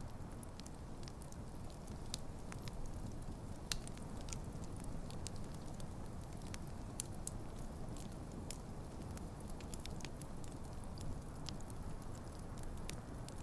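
Wood campfire burning, with a steady low rumble of flames and frequent irregular sharp crackles and pops from the burning logs.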